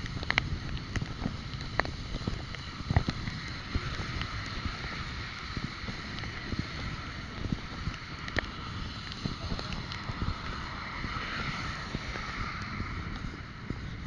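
Wind rumbling on the microphone with road noise from a moving bike ride, broken by scattered small clicks and rattles.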